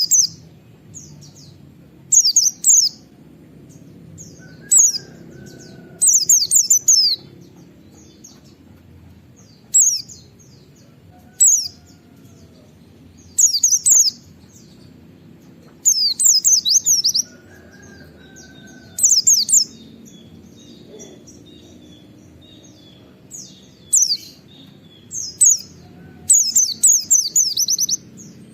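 A pleci (white-eye) singing in short bursts of rapid, high, falling notes, one phrase every two seconds or so, with quiet gaps between.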